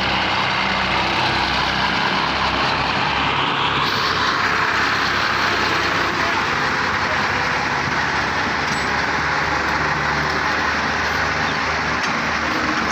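Tractor diesel engines running hard under heavy load in a pulling contest, a loud steady engine noise that gets brighter and fuller about four seconds in.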